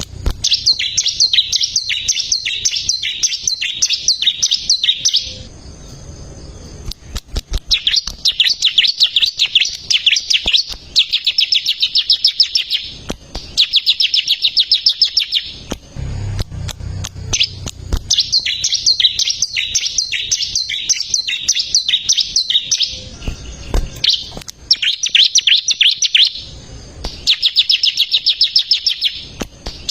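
Bar-winged prinia singing: phrases of rapid, repeated high chirps, each lasting a few seconds, with short pauses between them.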